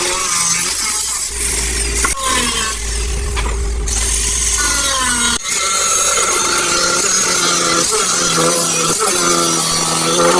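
Electric power tool running with a steady whine, its pitch sagging and recovering as it is loaded, then running steadily after an abrupt change about five seconds in.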